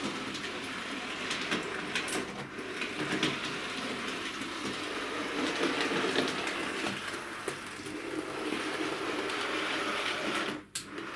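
Bachmann 00-gauge A1 Pacific model locomotive running over the track and points: a steady small-motor whirr with light wheel clicks over the rail joints. The running is smooth, with no stalling over the repaired points. The sound briefly drops away near the end.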